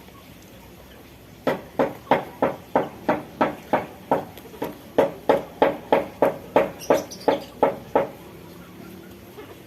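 A chicken clucking in a quick, even run of about twenty clucks, some three a second. It starts about a second and a half in and stops about eight seconds in.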